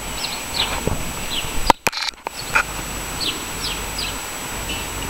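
Small birds chirping: a string of short, quick falling notes over a steady low outdoor rumble. Two sharp clicks with a brief drop in sound come a little under two seconds in.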